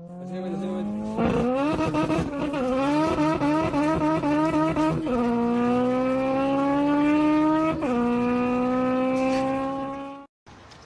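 Motor vehicle engine accelerating under load, its pitch climbing slowly and dropping suddenly at gear changes about five and eight seconds in, then cutting off abruptly near the end.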